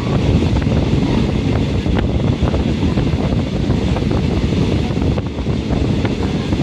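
Passenger train running, heard from inside the carriage: a steady low rumble with wind noise on the microphone and a few light knocks.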